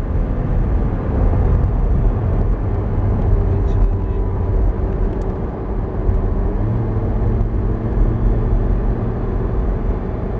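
Lamborghini Gallardo Performante's V10 engine heard from the open cockpit on track, over a heavy low rumble. The engine note falls slowly as the car slows over the first few seconds, then holds steady at lower speed.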